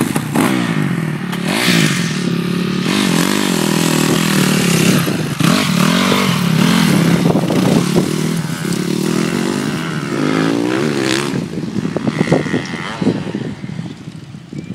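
Motocross dirt bike engines revving hard, the pitch rising and falling again and again with throttle and gear changes as the bikes ride the track.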